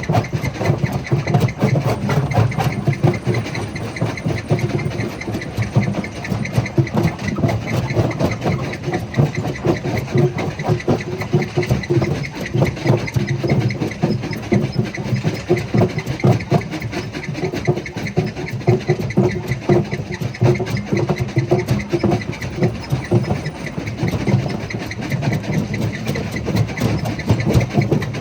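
Jaw crusher running, a steady heavy mechanical rumble with a dense, continuous clatter of stones being broken in the jaws.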